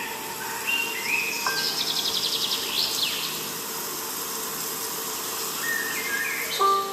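Songbird chirps and a fast trill with a rising whistle, over soft chime-like music notes that return near the end.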